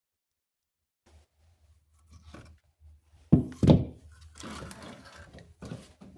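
Two loud wooden knocks about half a second apart, a little after three seconds in, as firewood is put on the fire, followed by a stretch of crackling and rustling.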